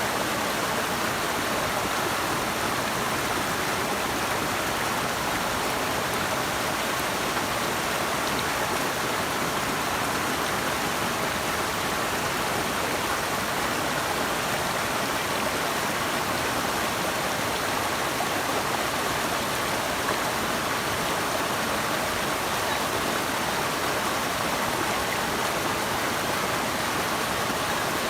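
Running water rushing steadily, an even hiss with no let-up and no separate splashes or drops standing out.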